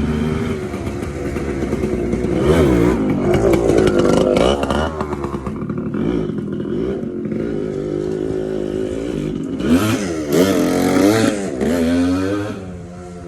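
Suzuki TC125 dirt bike's 125 cc two-stroke single being ridden and revved: the engine note climbs and falls twice, about three seconds in and again about ten seconds in, then drops away near the end. The bike runs well.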